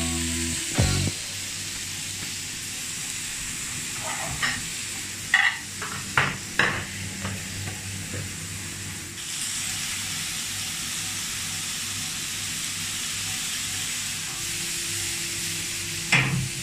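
Food sizzling on a hot grill, a steady hiss that grows slightly louder about halfway through. Several sharp clicks and knocks, likely utensils against the grill, come between about four and seven seconds in and once more near the end.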